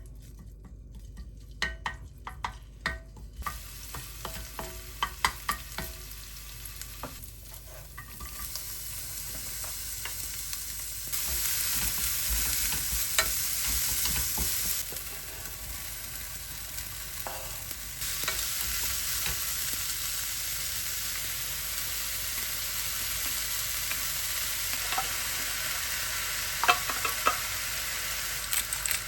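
Food frying in a pan: a steady sizzle with the occasional click of a utensil stirring. A few seconds of separate clicks and taps come first, then the sizzle sets in and steps up and down in loudness a few times.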